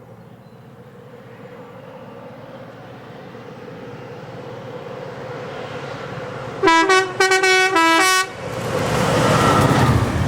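An approaching diesel locomotive-hauled train, its rumble building, sounds its horn in a quick series of short blasts near the middle. It then passes close by with loud wheel and engine noise.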